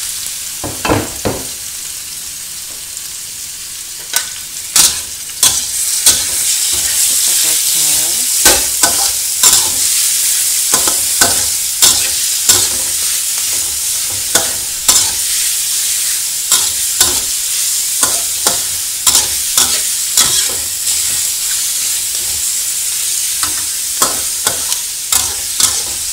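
Raw chicken pieces sizzling in hot oil in a steel wok, with a metal spatula scraping and clacking against the pan as they are stirred, about one or two knocks a second. The sizzle grows louder about four seconds in.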